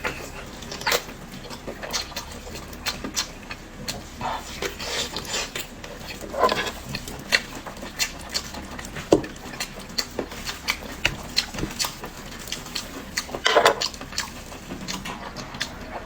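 Close-miked chewing of pig's ear: a continuous run of sharp, irregular crackles and wet mouth clicks, with a couple of louder bites along the way.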